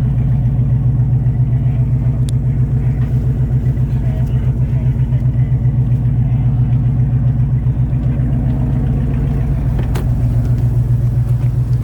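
A vehicle engine idling steadily, with a low, even pulse. A short sharp click near the end.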